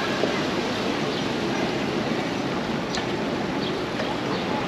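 Steady rushing outdoor noise, like wind and street noise while cycling, with a few faint short high chirps.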